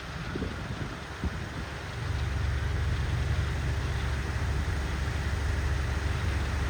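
Empty ballast train cars rolling past, with wheel clicks and knocks over the rail, then a louder, steady low rumble from about two seconds in.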